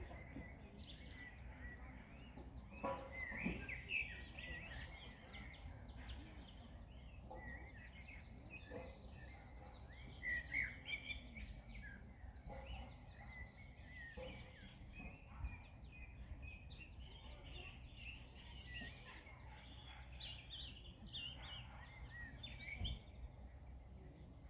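Several songbirds chirping and singing in short, overlapping phrases, over a faint, steady low background rumble.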